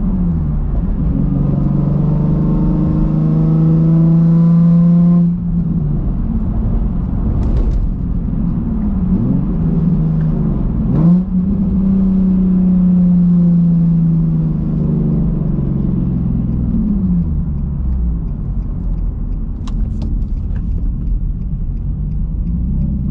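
Nissan Z engine pulling through the gears, heard from inside the cabin. Its note climbs, drops sharply at an upshift about five seconds in, and rises and falls again with more gear changes around eight and eleven seconds in.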